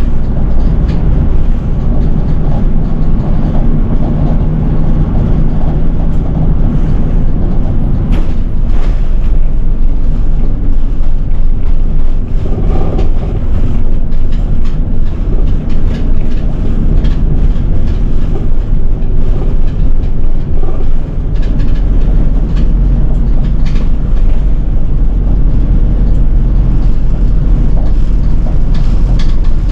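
City bus engine and road noise heard from inside the bus, a steady low rumble with scattered rattles and clicks; the deep rumble grows stronger about two-thirds of the way through.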